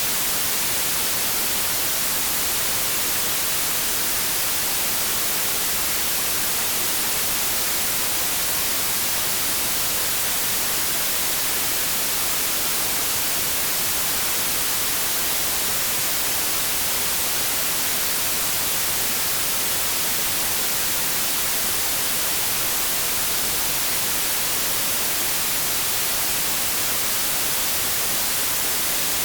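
Steady white noise: an even, unbroken hiss, brightest in the treble.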